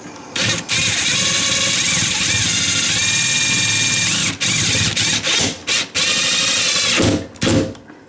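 Power drill driving screws: a long steady whirring run, then several shorter bursts with brief trigger releases in the last few seconds.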